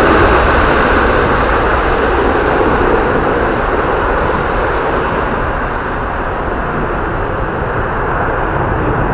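Boeing 777-300ER's twin GE90-115B turbofans at takeoff power, a broad steady roar that slowly eases a little as the airliner climbs away.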